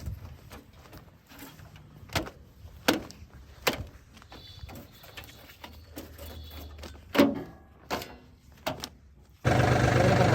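A faint low machine hum with a few sharp knocks or thunks scattered through it. Near the end, a loud heavy diesel engine running steadily starts abruptly.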